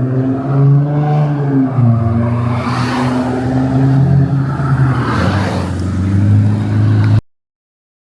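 Car engine running steadily at low revs, with two brief swells in noise about three and five and a half seconds in. It cuts off abruptly about seven seconds in.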